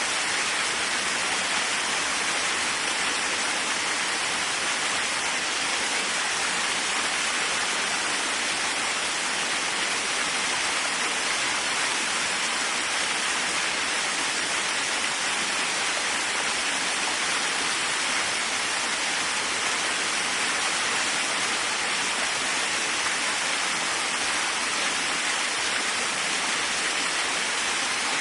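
Waterfall rushing, a steady, unchanging hiss of falling water.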